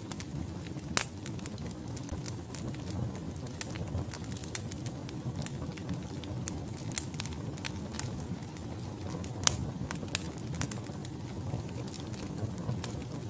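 Wood fire burning in a fireplace: a steady low rumble of flames with irregular sharp crackles and pops from the logs, the loudest about a second in and near the middle.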